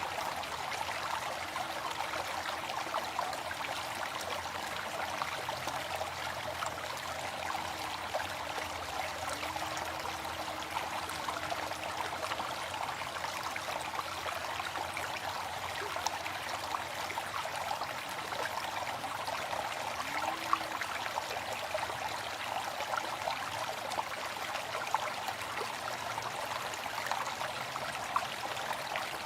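Waterfall: a steady, even rush of falling water with no pauses.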